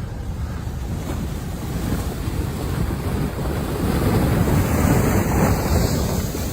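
Storm noise: wind and rough water rushing steadily, with heavy wind buffeting on the microphone.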